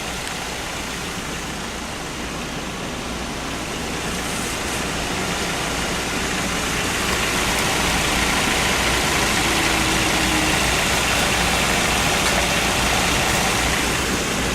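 Car engine idling steadily, growing louder between about four and eight seconds in.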